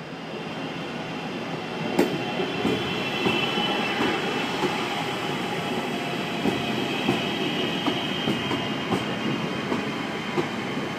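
A passenger train moving through the station, its wheels clicking irregularly over the rail joints. A faint high wheel squeal runs underneath, and the sound grows louder over the first two seconds.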